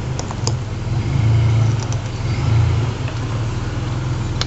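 Nissan Frontier pickup engine running at low speed while rock-crawling, the throttle pressed twice so the engine note swells and drops back. A few light clicks are heard near the start.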